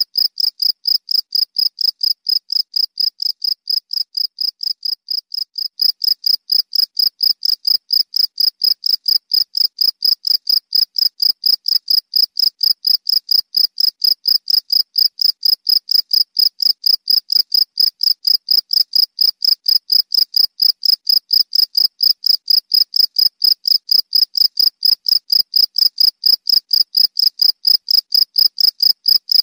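A cricket chirping close up in a steady, rapid rhythm of short, high chirps, a few a second. It is a little softer at first and louder from about six seconds in.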